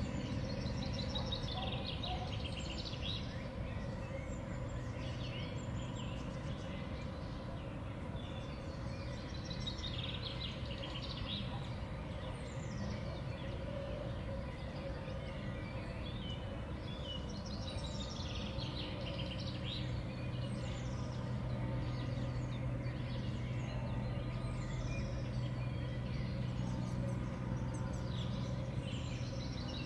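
Small songbirds calling and chirping repeatedly at a feeder, many short high calls overlapping, over a steady low hum.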